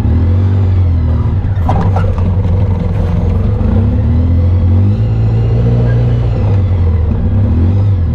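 Off-road vehicle engine running under way, its pitch rising and falling gently with the throttle, with a few short knocks about two seconds in.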